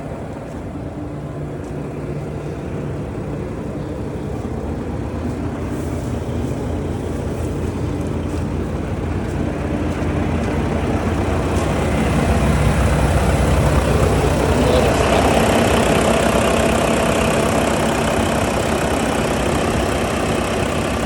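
2008 Volvo truck's diesel engine running steadily, growing louder over the middle of the stretch and then easing off slightly.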